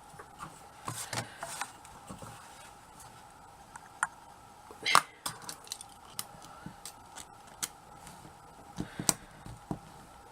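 Scattered light taps and clicks of a craft knife cutting and of small tools handled on a work surface, loudest about five seconds in and again near nine seconds, over a faint steady hum. The blade is dull and not cutting cleanly.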